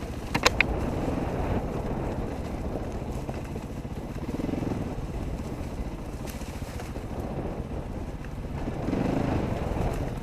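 Dirt bike engine running, with a steady rumble that swells a little twice. There are a couple of sharp knocks about half a second in.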